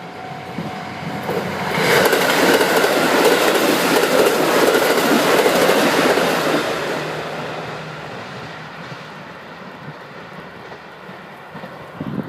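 KiHa 85 series diesel limited express train passing at speed: a loud rush of running noise with wheel clatter on the rails swells about two seconds in, holds for about five seconds, then fades away as the train recedes.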